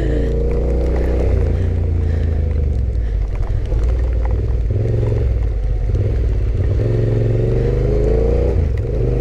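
Yamaha Ténéré 700 motorcycle engine running under way, its note rising as it accelerates through the gears, over a heavy, steady low rumble.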